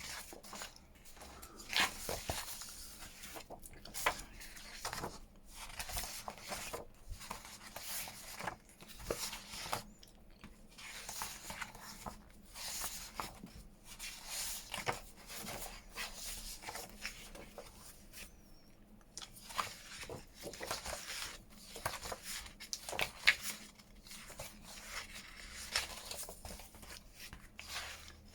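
Paper being handled and rustled: a series of short, irregular crisp rustles and soft taps as sheets are moved and sorted.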